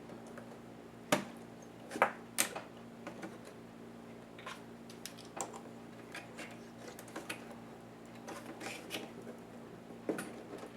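Scattered small clicks and taps of plastic and metal laptop parts being handled and pried during the disassembly of an ASUS U43JC, with a few sharper clicks about a second in, around two seconds in and near the end. A faint steady hum runs underneath.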